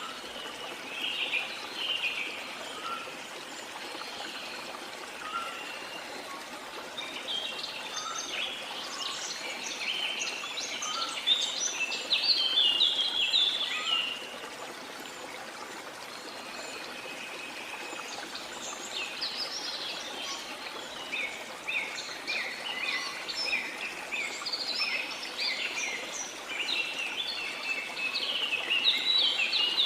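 Steady rush of a waterfall with many birds chirping and singing over it; the birdsong grows busy in the middle and again through the last third.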